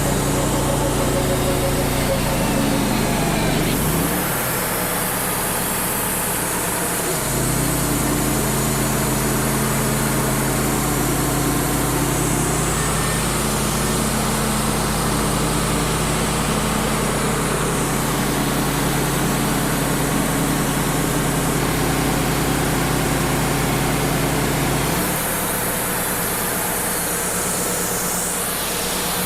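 Engine of a Wood-Mizer LT35 hydraulic portable sawmill running steadily, its note shifting a few times, about four seconds in, again about three seconds later, and near the end.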